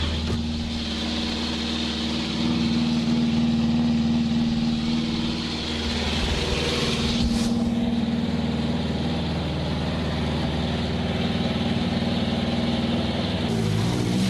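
Subaru Impreza WRC rally car's turbocharged flat-four engine idling steadily, its note changing near the end.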